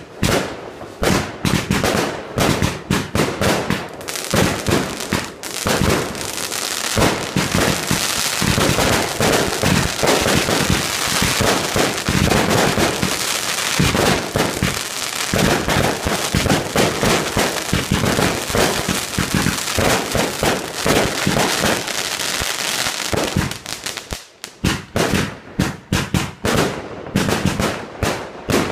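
Fireworks display firing: a quick run of separate bangs, then a dense, unbroken barrage for most of the middle, then separate bangs again near the end.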